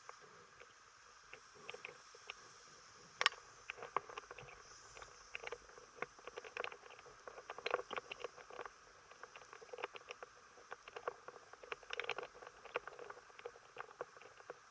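Irregular light clicks and taps over a faint steady hiss. They are sparse at first, with one sharper click about three seconds in, then come thick and uneven from about four seconds on.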